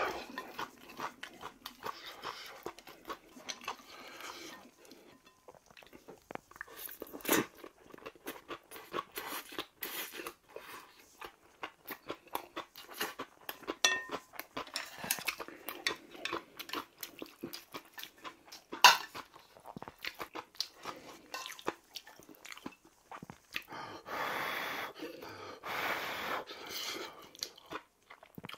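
Close chewing and crunching of mouthfuls of bibimbap mixed with crunchy raw kohlrabi salad, with sharp clicks of chopsticks against the pot. A few seconds of steadier breathy noise come near the end.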